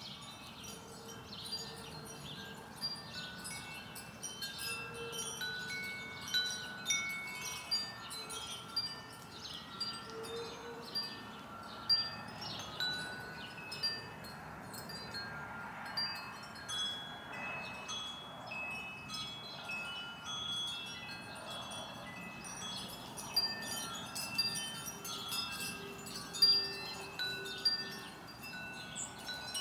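Wind chimes ringing: many clear tones at different pitches, struck at irregular moments and overlapping.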